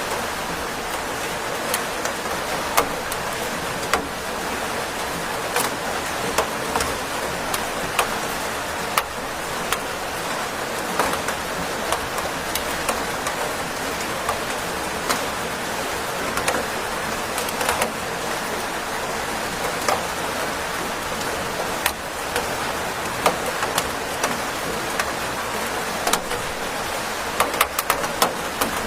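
Steady rain falling, with frequent sharp drip and tap sounds of drops hitting a surface close by.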